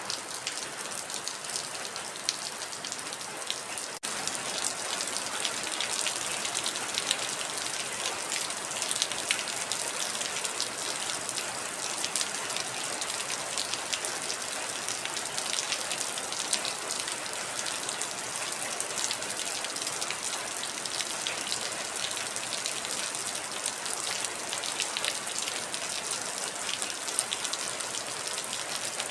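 Heavy rain falling steadily, a dense hiss of drops with many individual drop ticks. It gets a little louder about four seconds in.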